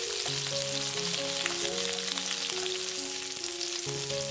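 Whole prawns sizzling steadily in hot oil in a wok as they are turned with chopsticks to pan-fry both sides. A soft melodic background tune plays under the sizzle.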